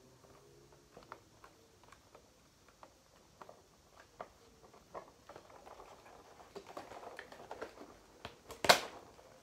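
Hands handling a plastic toy helicopter and its packaging: scattered light clicks and taps, soft rustling in the second half, and one loud sharp click near the end.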